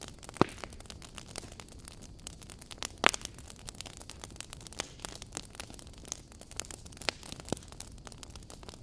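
Wood fire crackling in a fireplace: a dense stream of small snaps and pops over a low hiss, with two louder pops, about half a second in and about three seconds in.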